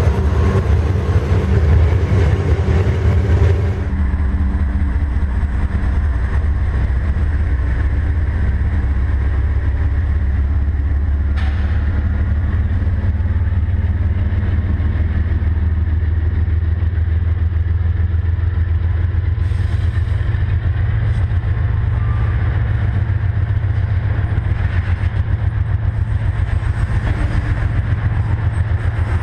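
Canadian Pacific GE diesel-electric freight locomotives running as they pull a train of tank cars past, a steady deep engine drone over the rumble of wheels on rail. About four seconds in, the sound becomes deeper and less bright as the locomotives move away and the tank cars roll by, with a single sharp click near the middle.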